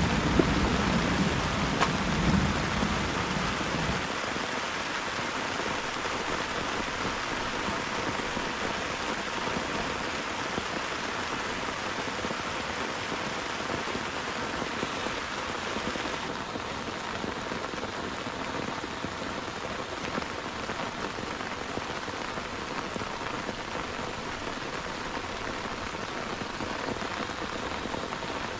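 Heavy rain falling steadily. A low thunder rumble dies away over the first few seconds.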